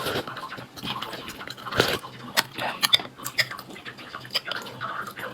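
A person eating at close range: chewing with irregular wet clicks and smacks.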